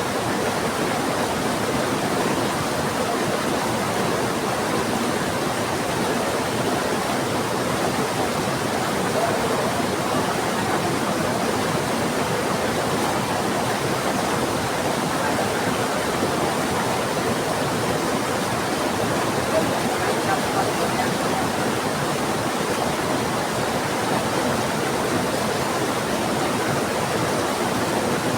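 Steady, unbroken rush of a fast-flowing river, with heavy rain falling.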